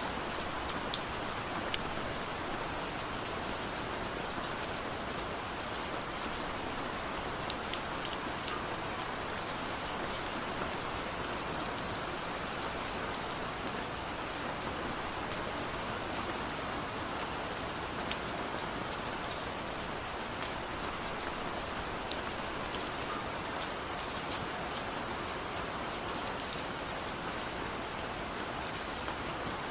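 Steady rain falling, with many scattered sharp drop ticks over an even hiss.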